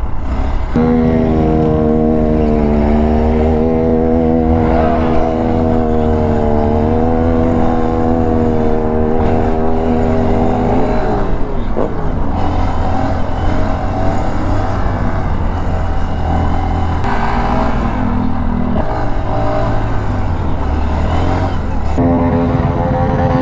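A vehicle engine held at high revs for about ten seconds, its pitch wavering slightly, then dropping away into rougher engine noise. The held high-rev note returns near the end.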